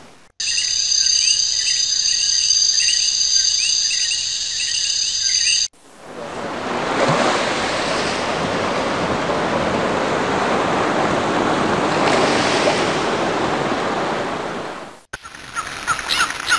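A string of nature sound-effect clips cut hard one after another. First come about five seconds of high steady tones laced with quick repeated chirps. Then about nine seconds of surf-like washing noise swell up and fade. Near the end comes a run of quick, high, short chirps.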